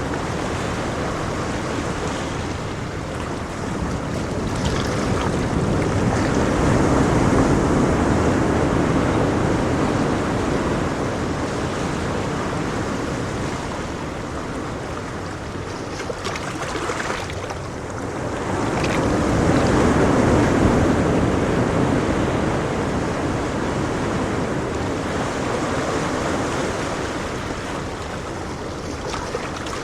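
Ocean surf: a continuous rush of waves breaking and washing in, swelling twice, about seven seconds in and about twenty seconds in, and easing between.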